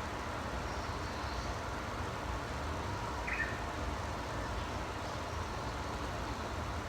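Outdoor ambience of a steady low rumble and hiss, with a few faint bird chirps over it; the clearest is a short call about three seconds in.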